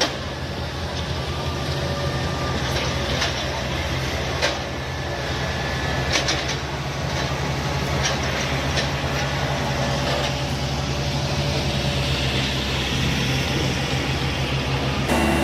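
Heavy road-building machinery with a diesel engine running steadily at a low hum, with scattered sharp clanks and knocks. The sound changes abruptly just before the end.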